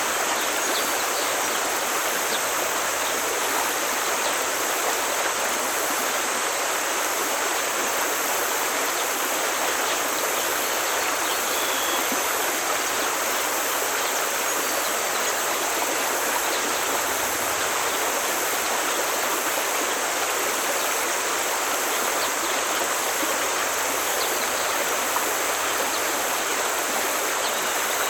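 Forest stream water flowing, a steady even rush with no breaks.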